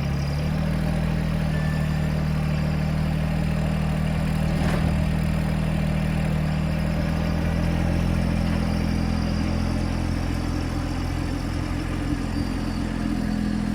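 TYM T264 compact tractor's engine running steadily while it lifts and sets oak logs, with a slight change in engine pitch just after the start and again near the end, and one faint knock about five seconds in.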